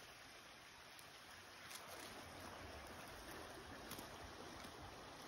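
Faint, steady rush of flowing river water, with a few light ticks.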